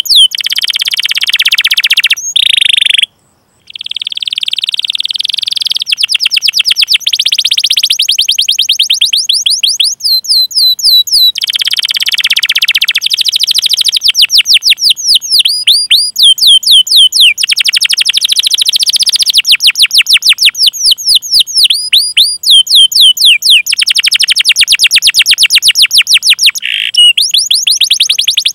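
Domestic canary singing a long, fast song: rapid runs of repeated downward-sweeping chirps rolling into trills, with a brief pause about three seconds in.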